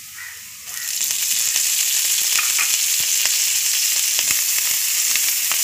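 Soft frying, then about a second in a loud, steady sizzle sets in as a heap of fresh mukunuwenna (Alternanthera sessilis) leaves goes into hot butter and onions in a pan, with a few light clicks.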